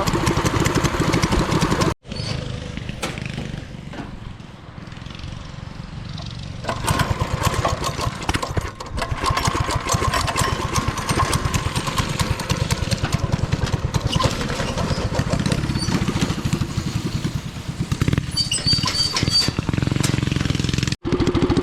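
Small single-cylinder four-stroke engine of a yard go-kart or mini bike running under throttle while being ridden. It sounds farther off at first and grows louder about a third of the way in, with two brief drop-outs near the start and the end.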